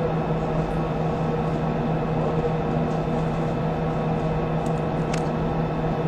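Steady hum and hiss of an open air-to-ground radio audio channel, with several constant tones underneath and two faint clicks near the end.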